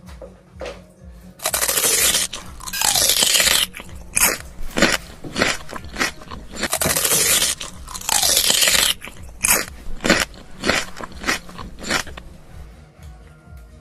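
Close-miked crunching and chewing of fast food, in two long loud crackly stretches with many short sharp crunches between and after them.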